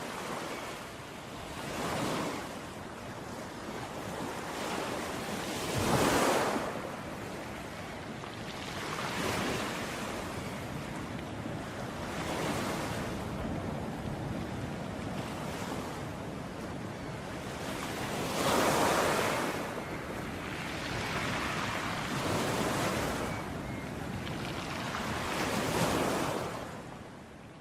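Ocean surf: waves breaking and washing in one after another, a swell every three to four seconds, the biggest about six and nineteen seconds in. The sound begins to fade out near the end.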